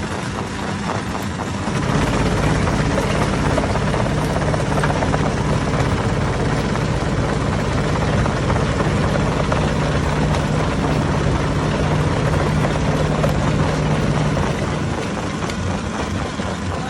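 Hammer-type stone crusher running with a steady heavy drone and a low pulsing hum, stepping up louder about two seconds in and easing back near the end.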